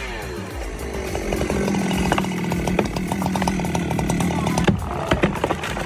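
Chainsaw dropping from a high rev, then running at a steady pitch while cutting, with many sharp clicks and cracks over the engine; near the end the steady engine note gives way to a noisier stretch full of clicks.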